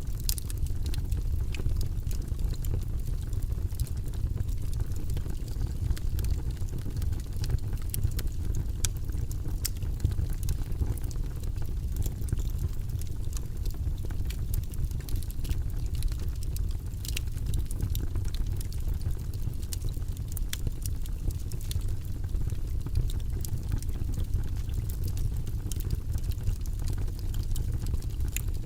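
Logs burning in a fireplace: a steady low rumble of flame with frequent small crackles and pops throughout.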